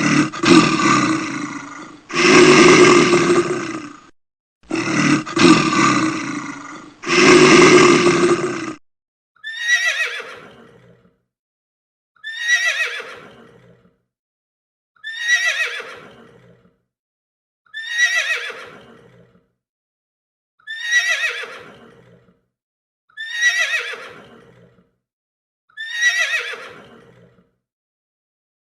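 A loud animal calling in four long, rough bursts, then a horse whinnying nine times in a row, each whinny a falling call about every three seconds.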